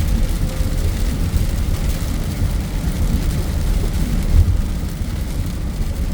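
Heavy rain falling steadily, over a constant low rumble.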